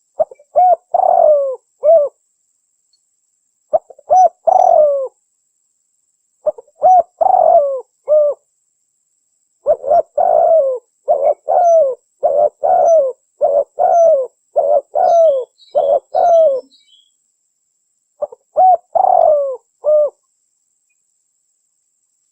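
Spotted dove cooing in repeated phrases of a few low coos each, with pauses of one to two seconds between phrases and a faster unbroken run of coos in the middle.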